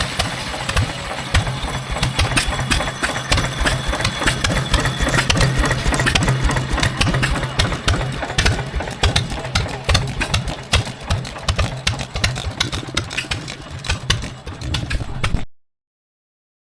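An engine running steadily, a low hum with a rapid stream of firing pulses, that cuts off suddenly near the end.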